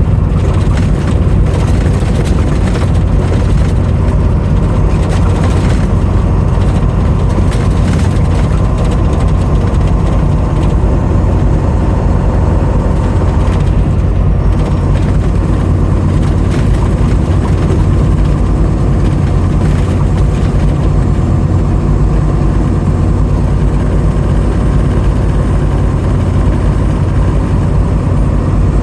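Steady, loud engine rumble, as of a running vehicle, unchanging throughout.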